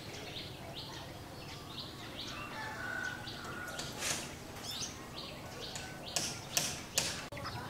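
Small birds chirping in a quick repeated series of short high notes, with a brief whistled note about three seconds in. Several short, loud rustling bursts come near the end.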